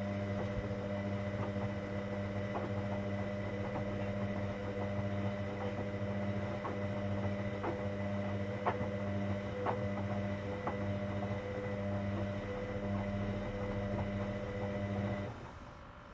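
Hoover Dynamic Next washing machine's drain pump running with a steady mains-pitched hum and light scattered clicks, then switching off abruptly about 15 seconds in.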